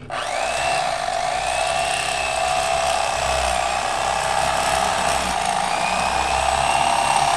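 Electric fillet knife switched on and running steadily as it cuts through a catfish, its motor pitch wavering slightly under load.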